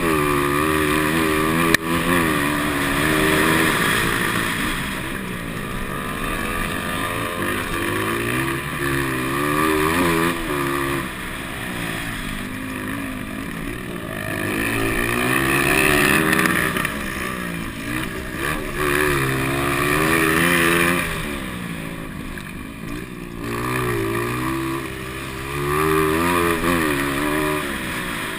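Motocross motorcycle engines of the 200cc class revving, their pitch rising and falling over and over as the bikes work through the track, several at once. A sharp knock about two seconds in.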